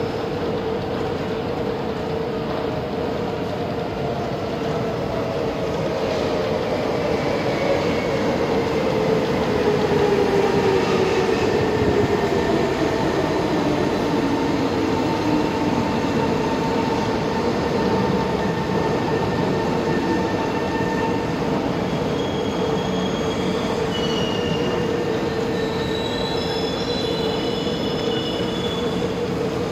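Electric MRT train pulling in, its motor whine falling steadily in pitch as it slows over a steady hum. Short high-pitched wheel squeals come near the end.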